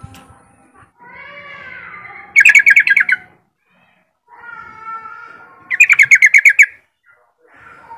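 Yellow-vented bulbul singing: soft warbling phrases broken twice by a loud burst of about eight quick, bubbling notes.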